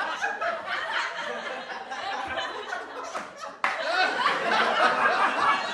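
Several people laughing together, with a few light claps. About three and a half seconds in, the sound cuts off abruptly and a louder burst of group laughter starts.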